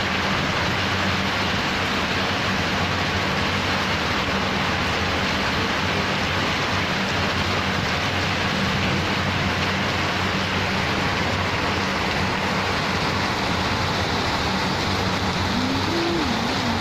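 Heavy rain pouring steadily in a rainstorm, an even hiss with a faint low hum beneath it. A short wavering tone sounds briefly near the end.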